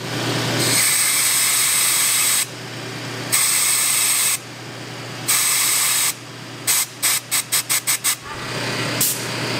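Compressed-air blow gun hissing into the venturi of a four-barrel carburetor: three long blasts, then a string of short quick bursts. The airflow builds venturi vacuum to pull the vacuum secondaries open, a test of whether they work.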